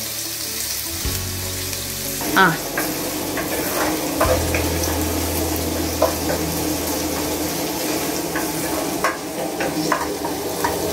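Chopped ginger sizzling as it fries in hot oil in a pan, being stirred so the utensil knocks against the pan every second or two. The ginger is being fried until it wilts, the stage before the garlic goes in.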